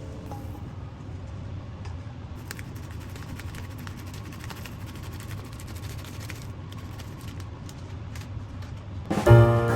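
Fried rice sizzling quietly in a pan, with scattered small crackles over a low steady hum. Piano music comes in near the end.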